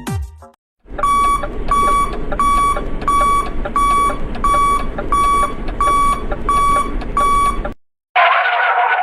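Electronic timer beeping, like an alarm clock: about eleven short, even beeps, a little more than one a second, over a steady hiss, then a short, bright sound effect near the end.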